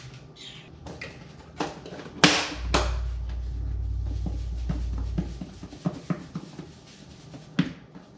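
Kitchen handling noises as catfish pieces are coated in breading mix: a loud knock about two seconds in, a low rumble for about three seconds, then scattered light clicks and taps.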